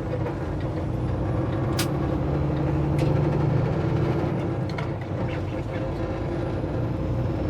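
Semi-truck's diesel engine running steadily at low speed, with two brief sharp clicks about two and three seconds in.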